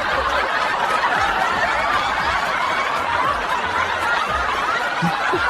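A crowd laughing: many voices laughing at once, holding an even level.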